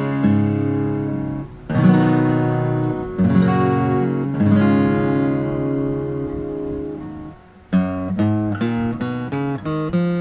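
Morris W-35 Special acoustic guitar being played: full chords strummed and left to ring. Near the end, single notes are picked one after another.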